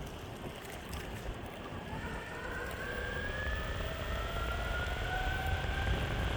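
Meepo Hurricane electric skateboard's motors whining, the pitch rising slowly as the board speeds up. Under the whine is a steady low rumble of the wheels on the road and wind.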